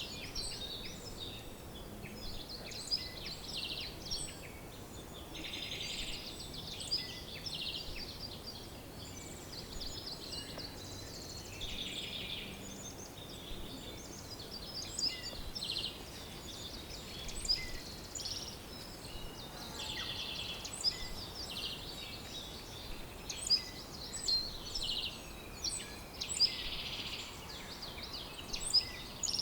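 Several birds singing and chirping at once: many short high notes and rapid trills overlapping throughout, over a faint steady background hiss.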